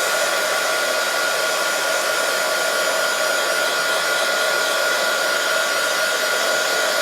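Handheld hot-air dryer blowing steadily with a constant whine, drying wet stamp ink on cardstock.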